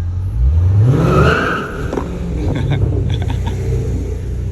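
Dodge Challenger Scat Pack's 392 HEMI V8 exhaust revving up about half a second in, the pitch rising for about a second, then settling back to a steady low rumble.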